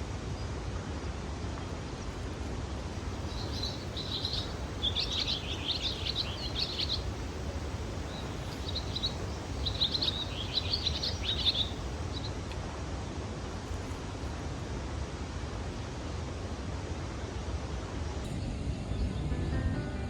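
Small birds chirping in two bouts of quick, high calls a few seconds apart, over a steady outdoor background noise.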